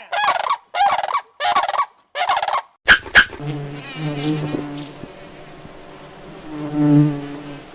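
Goat bleating four times in quick short calls. Then, after a couple of clicks, an insect buzzes steadily with a low drone that swells louder near the end.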